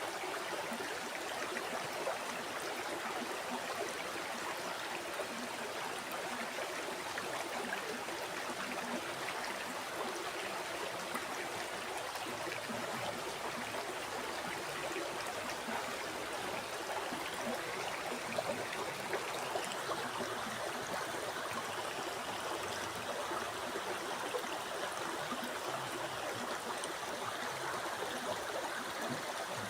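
River water flowing steadily: an even, continuous rush of water.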